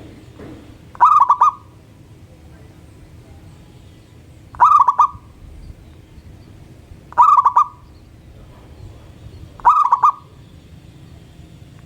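Zebra dove (perkutut) cooing: four short phrases, each a quick run of notes, repeated every few seconds.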